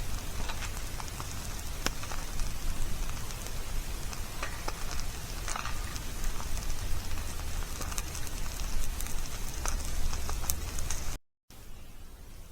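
Wood campfire crackling, with a steady hiss and scattered sharp pops. It cuts off about eleven seconds in and returns quieter.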